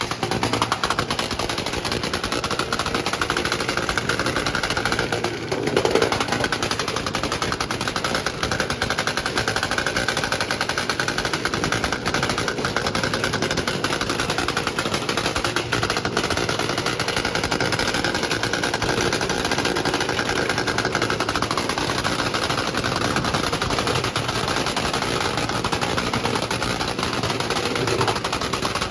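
Motorcycle engines revving with a rapid, crackling exhaust, running on without a break.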